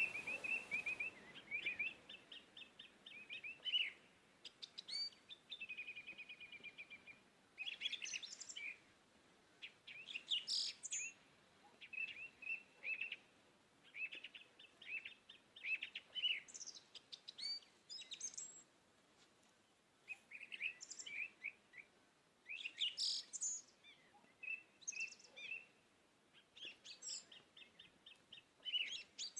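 Small birds chirping and singing in short repeated phrases of quick trills and sharp high notes, with brief pauses between them.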